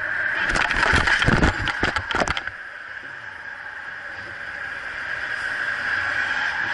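Dashcam recording of a car crash: a cluster of loud bangs and crunches lasting about two seconds, starting about half a second in, then the steady running noise of the car.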